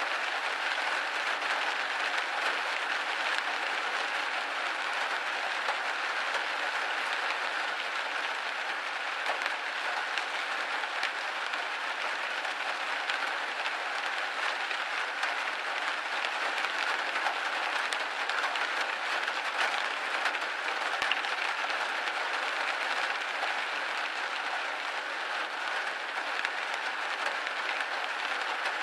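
Steady rain pattering on a window pane, a dense even hiss of drops with no breaks.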